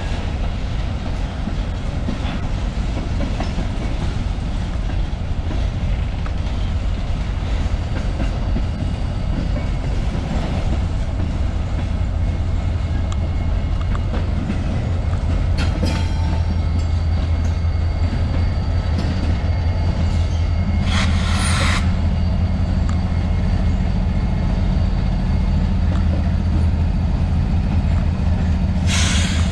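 Train rolling past close by, a continuous heavy rumble of wheels on rail with clickety-clack from the rail joints. Two-thirds of the way through, a short high hissing screech cuts in, and a steady low hum joins the rumble.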